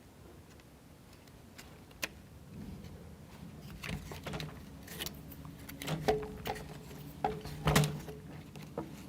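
Plywood parts of a wooden model kit being handled and fitted together by hand: a sharp click about two seconds in, then a run of irregular light clicks, taps and knocks, loudest near the end.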